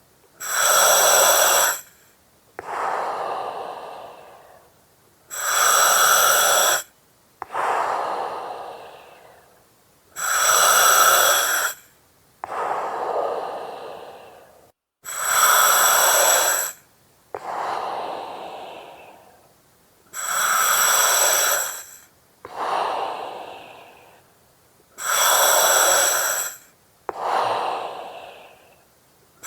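Steady breathing through an oxygen mask, about one breath every five seconds, six in all. Each cycle is a loud hiss lasting about a second and a half, then a softer breath that fades away.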